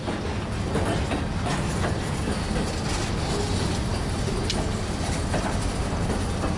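Freight train cars rolling past close by: a steady rumble of steel wheels on rail, with scattered clicks and clanks as the wheels cross rail joints, and one sharp click about four and a half seconds in.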